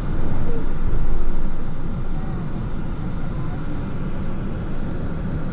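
Steady road and engine rumble heard inside a moving Ford Transit van, swelling briefly about a second in.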